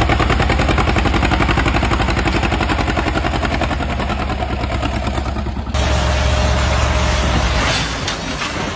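Tractor engine running with a rapid, even pulsing. About six seconds in, the sound cuts to a different recording of an engine running more steadily.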